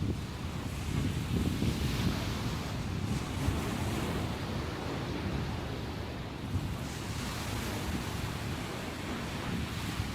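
Sea waves breaking and washing ashore in steady surf, with a deep, continuous rumble that swells and eases gently, and wind buffeting the microphone.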